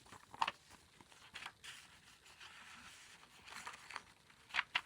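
Paper and card pages of a handmade junk journal being handled and unfolded: soft rustling and swishing with a few sharp taps and clicks, the loudest pair near the end.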